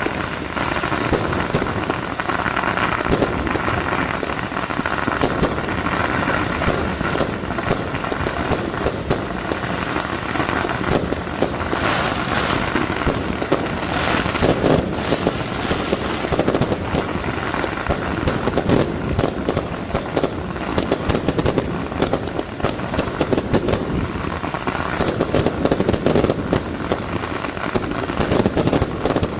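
Fireworks going off in a dense, unbroken stream of cracks and bangs.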